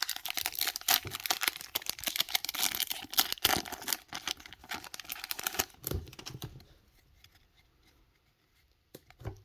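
A Pokémon booster pack's foil wrapper being torn open and crinkled, a dense crackling for about six seconds that then dies away to faint handling.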